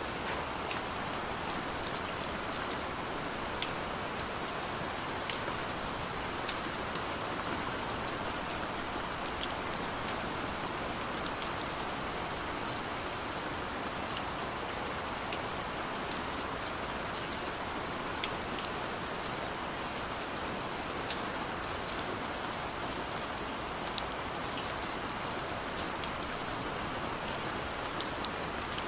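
Steady gentle rain falling, a continuous hiss with scattered sharp ticks of individual drops landing close by.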